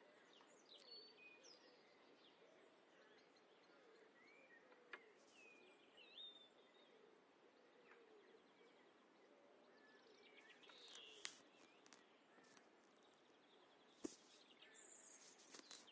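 Faint garden ambience with small birds chirping on and off, and a few sharp clicks, the loudest about 11 and 14 seconds in.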